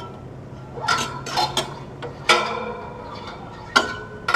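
Metal hardware knocking together: about five sharp clanks and clinks that ring briefly, the loudest a little past halfway.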